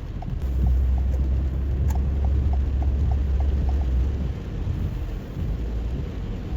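Rain and tyre noise heard from inside a car driving on wet roads, with a deep rumble from about half a second in until about four seconds, and light regular ticking at about three a second.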